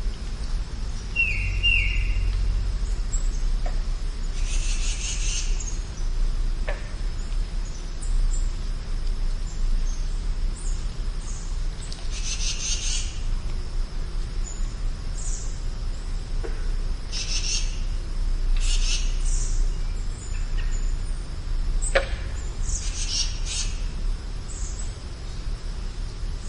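Songbirds singing in short high phrases every few seconds, with two clear whistled notes about a second in and a few quick downward-sweeping calls, over a steady low rumble.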